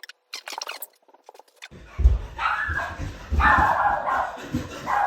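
Domestic cat meowing: three drawn-out meows starting about two seconds in, after a quiet start.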